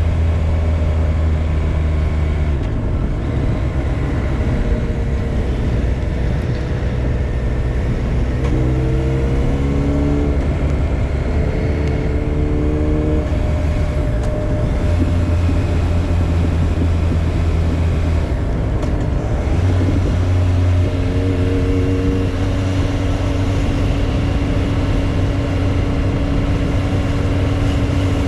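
Motorcycle engine running under way, with a rushing wind noise over it. The engine note shifts up and down several times, rising around a third of the way in.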